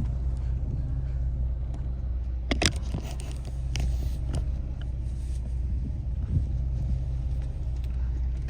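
Boat engine running with a steady low rumble, with a brief knock or two.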